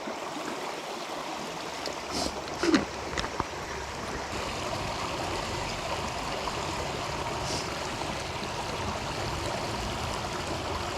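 River water flowing steadily over its bed, with a few brief clinks or knocks about two to three seconds in.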